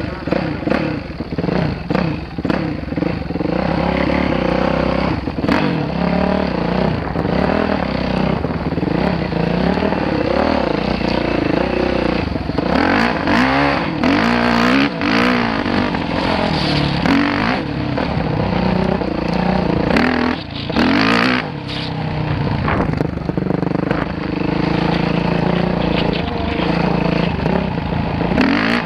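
Dirt bike engine running and revving up and down repeatedly, its pitch rising and falling, with frequent short knocks and rattles.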